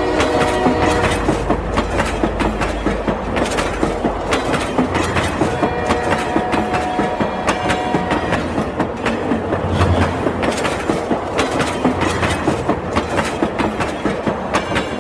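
Train wheels clattering over rail joints in a fast, steady clickety-clack rhythm, with a held tone for a couple of seconds about midway.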